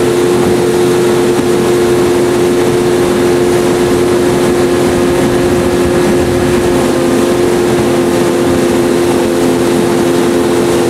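Boat motor running steadily at a constant speed: an even drone with a steady hum that holds its pitch throughout.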